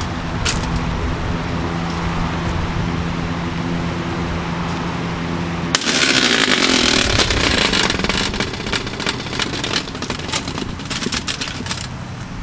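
Holmes box fan's motor running with a steady hum. About six seconds in, a hard strike is followed by a couple of seconds of loud clattering, then scattered knocks and rattles as the fan keeps running.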